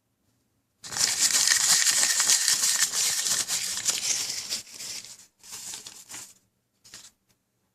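A crinkling, crackling noise of something being handled for about four seconds, followed by a shorter burst and a brief one near the end.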